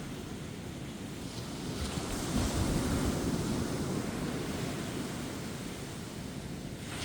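Ocean waves breaking and washing up a beach, a steady surf rush that swells about two seconds in and eases off towards the end, with gentle wind.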